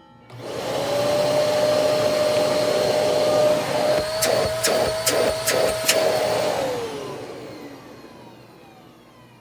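Hoover Port-A-Power vacuum motor switched on, starting abruptly and running with a steady whine and air rush, showing the repaired switch or cord now works. About five sharp clicks sound in the middle. The motor is then switched off and spins down, its whine falling and fading away.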